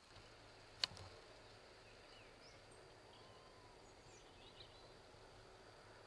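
Near silence: faint outdoor ambience with a few short, distant bird chirps scattered through, and a single sharp click a little under a second in.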